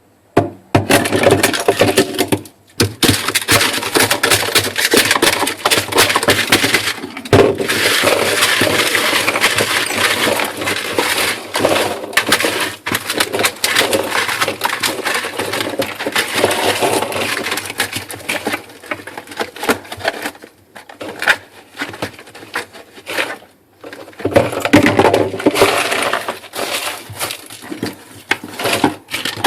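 A block of ice on a freezer floor being chipped and broken up by hand, with many rapid knocks, scrapes and cracks and loose chunks clattering, in several spells with short pauses.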